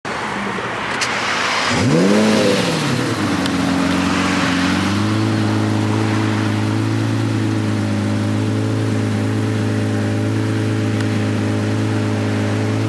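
Sports car engine revving up sharply once about two seconds in and dropping back, then settling into a steady idle.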